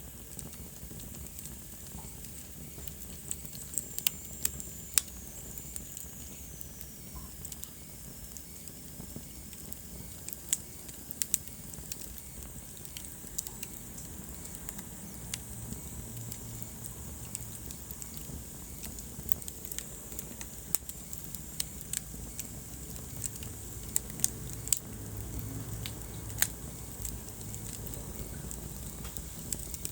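Wood fire crackling in a fireplace: irregular sharp pops and snaps over a low, steady rumble of the flames. A faint high whistle falls in pitch for a few seconds, a few seconds in.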